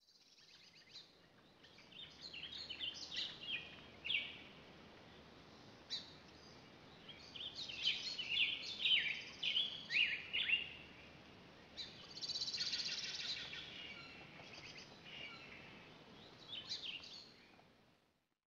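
Small birds chirping in scattered clusters of quick, high notes, with a longer buzzy trill about twelve seconds in, over a faint background hiss.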